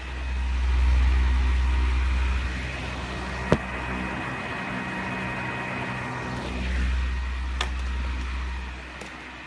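Britânia Ventus Protect 40 table fan running: a steady motor hum with air rushing, the wind rumbling on the microphone in the first couple of seconds and again near the end. A sharp click sounds about three and a half seconds in, and a fainter one later.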